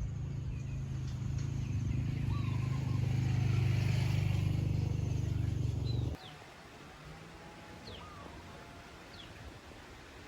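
A loud, low, engine-like rumble with a steady pitch runs for about six seconds and cuts off abruptly. Over it, and alone after it, birds are chirping, with short, quick, falling whistles every second or so.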